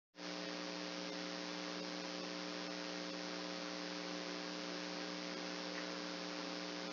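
Steady electrical hum with several fixed tones under an even hiss, starting just after the beginning and cutting off abruptly at the end.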